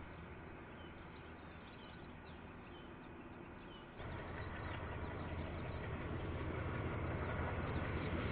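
Rumble of a passing train dying away, then, after a sudden jump in level about four seconds in, the low rumble of another approaching train growing steadily louder. Heard through a security camera's microphone, with a dull, narrow sound.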